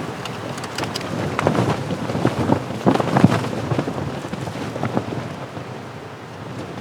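Strong gusty blizzard wind buffeting a tent, the fabric flapping and snapping in quick irregular cracks over a steady rush of wind; the gusts are strongest about three seconds in and ease toward the end.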